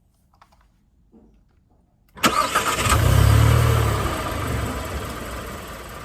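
A car engine starts abruptly about two seconds in and runs with a steady low note that slowly fades.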